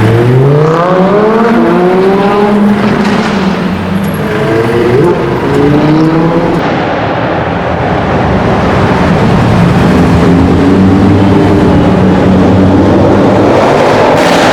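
Audi RS7 Sportback's twin-turbo V8 accelerating, its exhaust note climbing in pitch twice in the first six seconds, then running at a steadier pitch.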